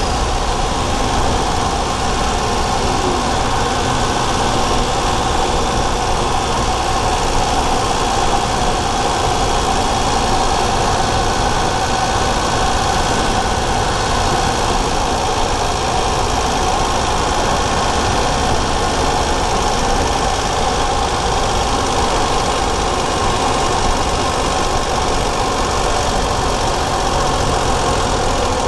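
Daihatsu Charade GTti's turbocharged three-cylinder engine running steadily at an unchanging pitch, heard close up through a microphone in the engine bay.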